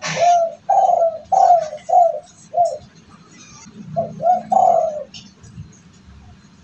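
Spotted dove (derkuku) cooing: a phrase of five short coos, then after a pause of about a second a phrase of three, the last one drawn out.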